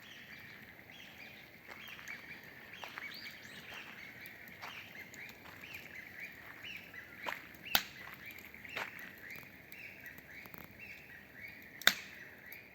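Small birds calling, short chirps repeated several times a second and overlapping, with two sharp clicks, the second near the end the loudest.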